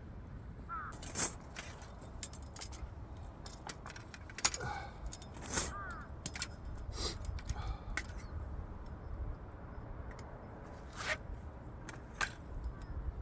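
Thin metal heat-shield plates for a fire pit stand clinking and scraping as they are fitted together: scattered sharp metallic clinks, some ringing briefly, with a few louder ones along the way.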